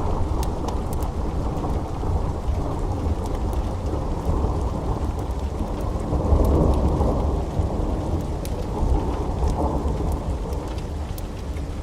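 Steady rain with a continuous low thunder rumble that swells about six seconds in, and scattered sharp ticks over it.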